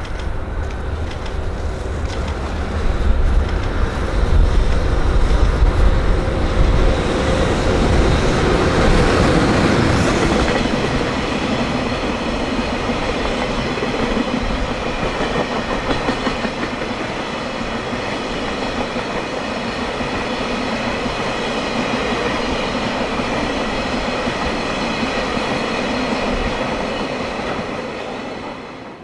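JR Freight EH500 electric locomotive passing at speed with a long train of tank wagons. The locomotive's rumble is loudest in the first several seconds, then the wagons keep up a steady rapid clickety-clack of wheels over the rail joints.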